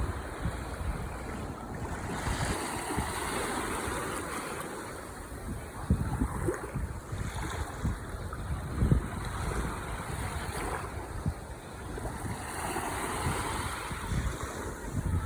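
Ocean waves washing onto the shore in a continuous surging hiss that swells and eases, with wind buffeting the microphone in low rumbling gusts.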